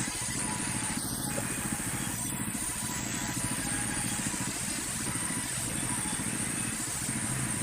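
Sawmill machinery's engine running steadily with a fast, even pulsing and a thin high steady whine above it.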